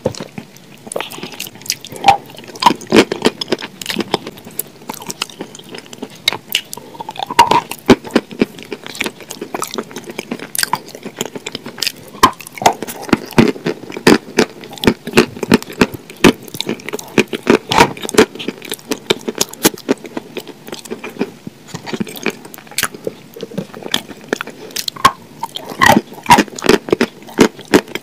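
Close-miked wet chewing and lip-smacking, with sticky squelches and clicks from fingers working through a thick sauce in a glass bowl. The sharp, irregular smacks come in quick clusters with short pauses between them.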